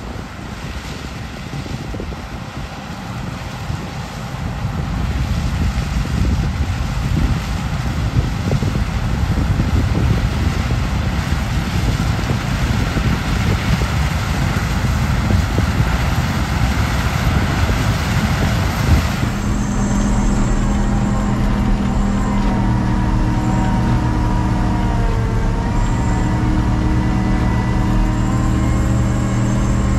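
Heavy diesel vehicle running, with rough wind and road noise. About twenty seconds in, the sound changes abruptly to a steady, even engine drone with a low hum.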